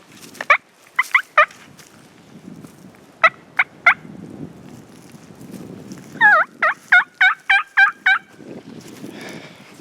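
Turkey calls: a few sharp single notes and short groups of three, then a quick run of about seven calls lasting two seconds.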